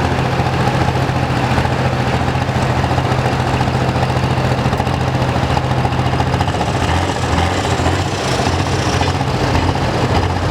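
Pro stock pulling tractor's diesel engine idling steadily, its pitch dropping a little about six and a half seconds in.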